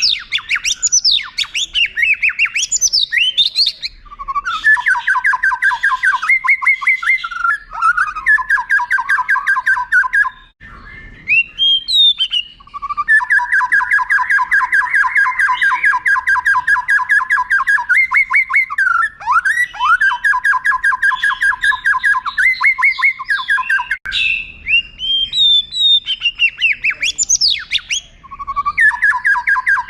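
White-rumped shama (murai batu) singing: bursts of varied sweeping whistles alternate with long, fast, rattling trills held for several seconds, with a brief pause about ten seconds in.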